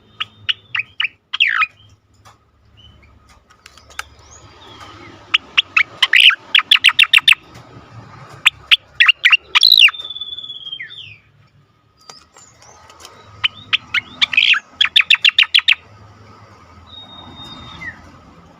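Striated grassbird (cica koreng) singing its rapid 'ngejoss' song: two long runs of sharp, quickly repeated notes, with shorter note groups and a drawn-out falling whistle between them.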